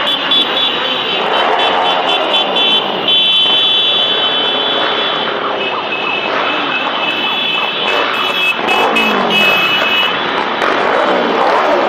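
Motor vehicles, likely motorcycles, passing in the street, their engine pitch rising and falling as they go by, over a steady high whine that comes and goes.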